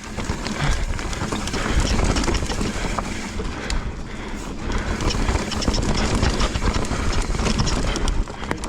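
Mountain bike, a Specialized Enduro, ridden fast down a dirt trail: a steady rush of tyre and trail noise with constant rattling and clicking from the bike over the bumps.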